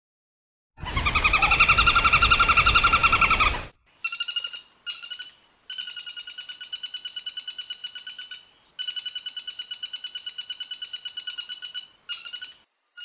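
Woodpecker calling in fast rattling series of rapid, evenly repeated notes, about nine a second, in several runs broken by short gaps. The first run, about a second in, is louder and harsher than the rest.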